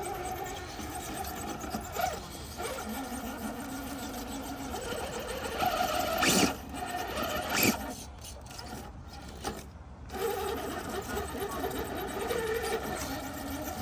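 Small electric motor and geared drivetrain of a radio-controlled rock crawler whining as it drives, the pitch rising and falling with the throttle and pausing briefly partway through, with a couple of sharp clicks.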